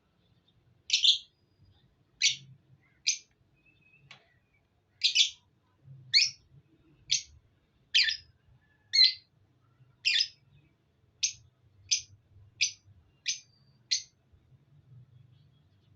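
Pet lovebirds chirping: about fourteen short, sharp, high chirps, roughly one a second, with a short pause early on.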